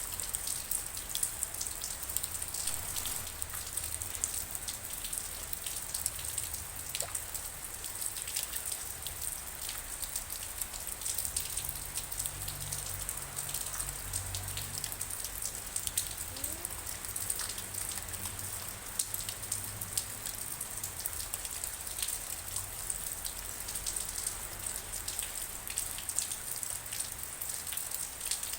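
Steady rain falling, with many individual drops ticking sharply on a hard surface. A low rumble swells briefly about halfway through.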